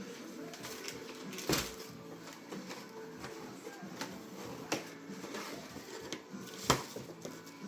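Quiet room sound with three sharp clicks or knocks from things being handled: one about a second and a half in, one a little before five seconds, and the loudest near the end.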